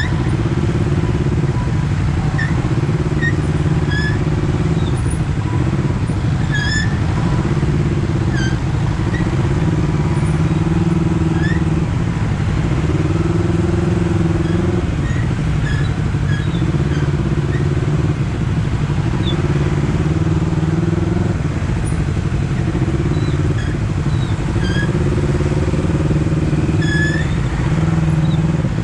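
Honda CBR250RR parallel-twin engine running as the motorcycle is ridden, its note rising and falling in steps with throttle and gear changes.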